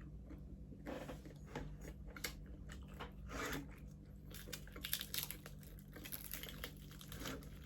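Chewing and crunching on crispy deep-fried pork skin, with many short irregular crackles.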